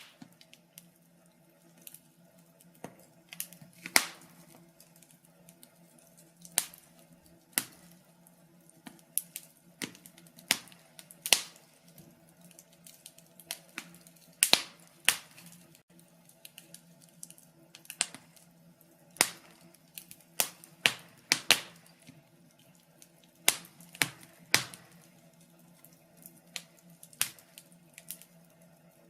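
Wood fire crackling in a fireplace: irregular sharp pops and snaps, a few of them much louder than the rest, over a faint steady low hum.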